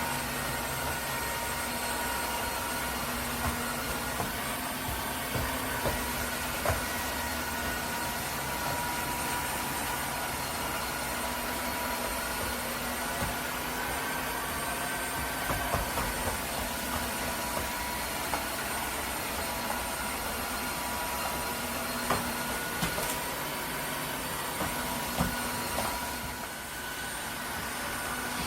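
Dreame H12S cordless wet-dry vacuum mop running steadily, a constant motor whine over a rushing noise, with occasional small clicks. The sound dips briefly near the end.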